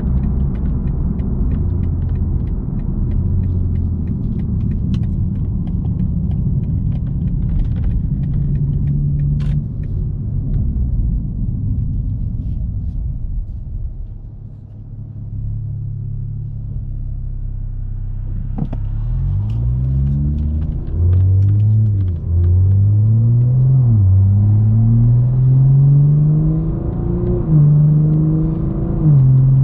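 BMW M240i's B58 turbocharged 3.0-litre inline-six exhaust, heard through an external mic. It gives a low steady drone at light throttle, eases off about halfway, then pulls hard with the pitch climbing and dropping through several quick upshifts.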